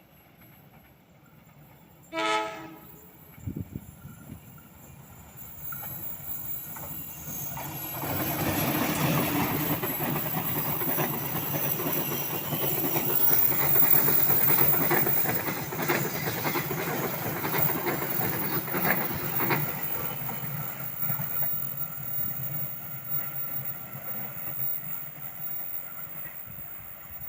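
Bogowonto passenger train sounding a short horn blast about two seconds in, then passing over the Sukoreno railway bridge. Its wheels clatter over the rail joints in a building rumble that peaks in the middle and fades away toward the end.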